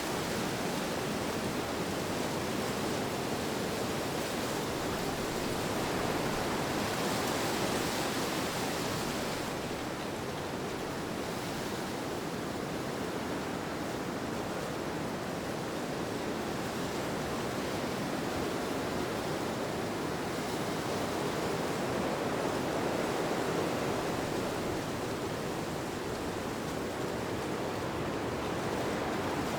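Steady rushing wind that swells and eases slowly, with a brief hissier gust about seven seconds in.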